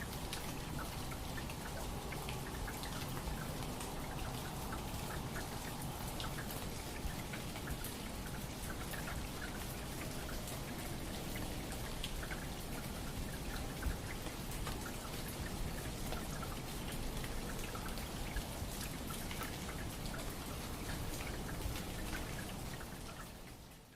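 Steady patter of water drops like rain, with many small drips and light ticks throughout, fading out right at the end.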